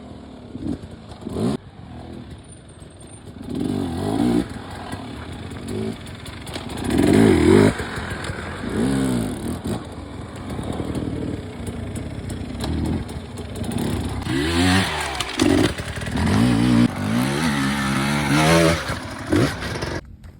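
Dirt bike engines revving hard and easing off again and again, the pitch climbing and dropping with each burst of throttle, loudest about seven seconds in and again for the last several seconds. It cuts off abruptly near the end.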